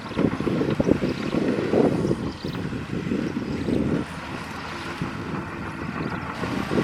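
Heavy earthmoving machine's diesel engine working, surging and easing every second or so, with a lighter stretch around the middle before it picks up again.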